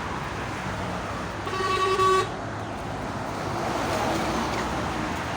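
A vehicle horn honks once, a single tone lasting under a second, about one and a half seconds in, over steady street traffic noise.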